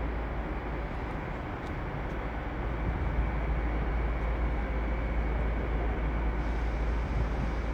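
Steady rumbling noise of a train at a station platform, with no distinct events.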